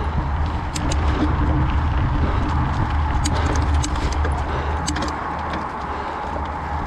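Wind buffeting the microphone and the rattle of a mountain bike riding over a rough dirt trail, with scattered sharp clicks and clatters throughout; a little quieter in the last couple of seconds.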